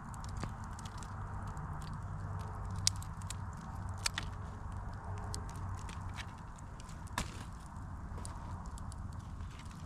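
Campfire burning: wood crackling with scattered sharp pops over a low steady rumble, the loudest pops about three, four and seven seconds in.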